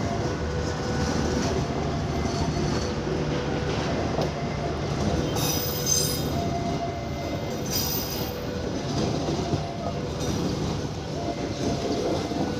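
Train passing close by: a steady rumble of wheels on the track with clickety-clack, and brief high-pitched wheel squeal about six seconds in and again near eight seconds.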